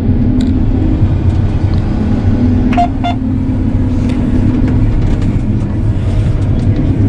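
Combine harvester engine running steadily, a loud low rumble, with two short beeps about three seconds in.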